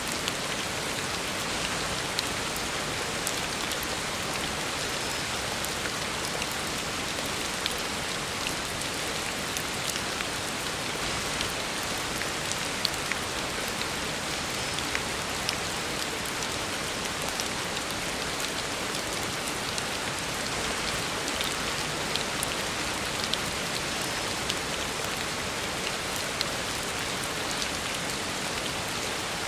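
Heavy rain falling steadily on a road: a constant hiss of rain with scattered sharper drop ticks.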